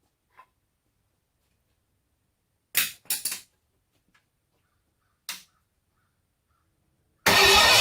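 Ford 8BA flathead V8 popping as it tries to fire: one sharp pop, a quick double pop, then another pop about two seconds later, which the owner puts down to the ignition timing being a little off. Loud music cuts in suddenly near the end.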